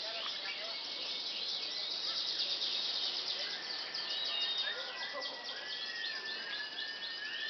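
Domestic canaries singing: dense rapid trills and chirps overlapping, with a long held whistled note in the second half.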